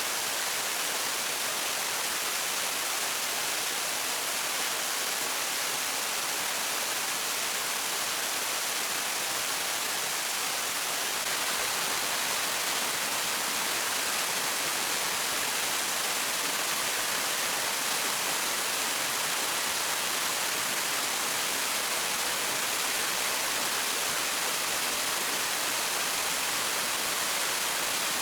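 Steady, even hiss of rushing water, with no breaks or single events; it grows slightly louder about eleven seconds in.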